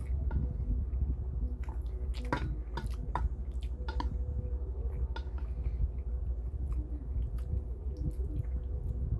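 Close-up chewing and wet mouth sounds of someone eating spicy cold mixed noodles (Paldo bibim-myeon), with scattered light clicks of wooden chopsticks against a stainless steel bowl, over a steady low hum.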